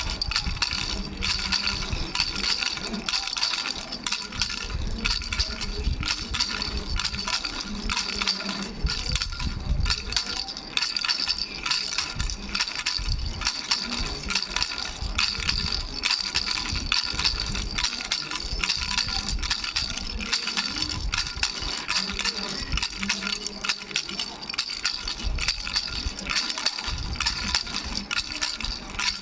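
Baby's bell rattle shaken continuously: small bells jingling and ringing over a dense stream of rattling clicks.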